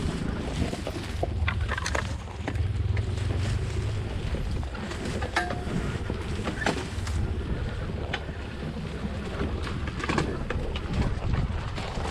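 Dirt bike being ridden off-road: a low engine rumble under wind buffeting the microphone, with scattered knocks and clicks throughout.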